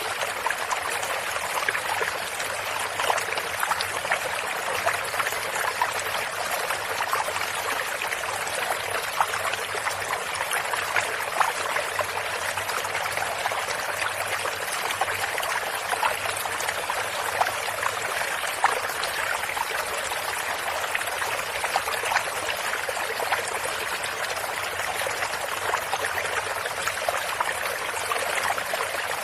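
A small stream running steadily over stones, a continuous babble and trickle of water with many small splashes.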